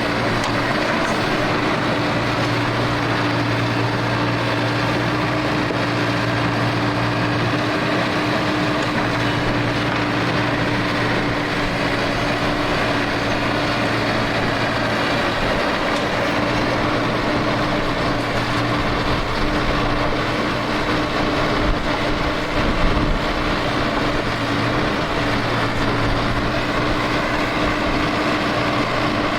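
Heavy earthmoving machine's engine running steadily under load, a continuous drone, with a brief knock about 23 seconds in.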